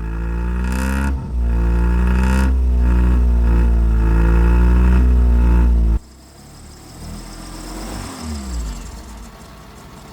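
A just-repaired car engine revved and held at high revs, its pitch wavering, for about six seconds, then cutting back abruptly to a much quieter idle. It runs smoothly now that the no-start fault is fixed.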